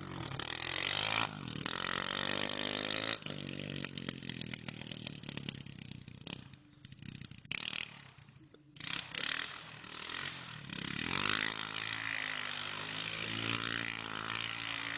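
Honda 200X single-cylinder four-stroke engine, swapped into a Kawasaki, running and revving as the machine is ridden, its pitch rising and falling. It drops back quieter for a few seconds around the middle, then revs up again.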